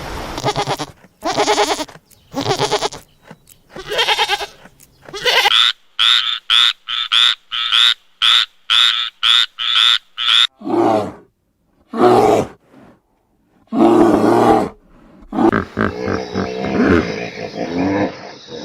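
A string of separate animal calls and grunts: a few calls, then a quick run of about ten short high-pitched calls, then deeper drawn-out calls, with a different busier animal sound near the end.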